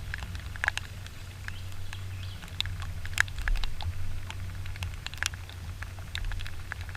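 Raindrops tapping in scattered, irregular ticks, over a low steady hum.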